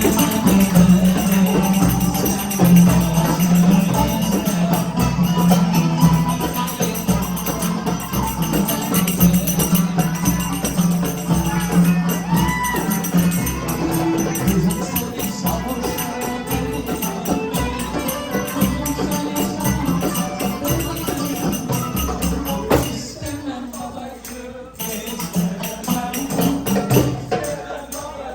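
Live music with rapid hand-drum or tambourine strokes over sustained low tones, thinning out and getting quieter after about 23 seconds.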